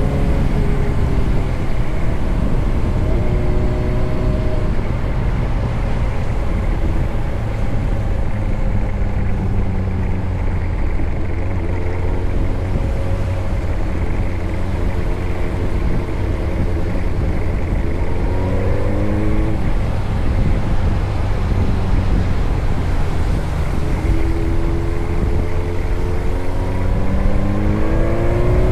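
Motorcycle engine running under way, its pitch rising as it accelerates several times. Beneath it is a steady low rumble.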